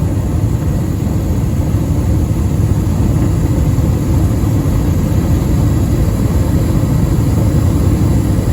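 Comfortmaker gas furnace's burner flames recorded up close, giving a steady low rumble of combustion.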